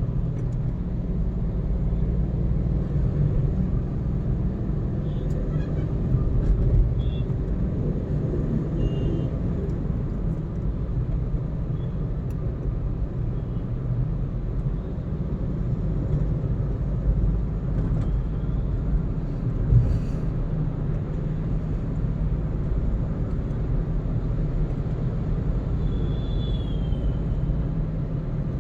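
Car driving on a road: steady low road and engine rumble, with a single short knock about twenty seconds in.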